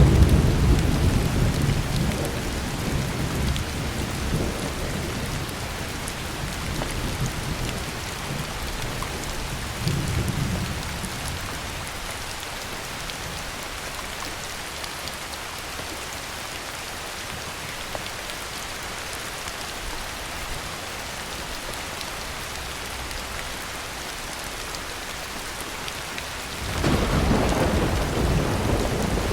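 Heavy rain falling steadily with thunder. A low rumble of thunder fades away over the first few seconds, and a shorter rumble comes about ten seconds in. Near the end a louder peal of thunder starts suddenly over the rain.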